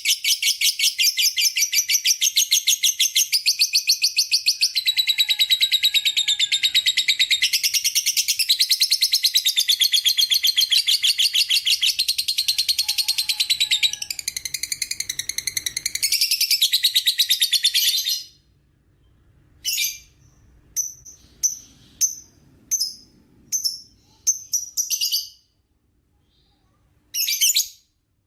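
Lovebird giving a long 'ngekek' call: a loud, rapid, high-pitched chattering trill held unbroken for about eighteen seconds, then cut off suddenly and followed by a string of short separate chirps.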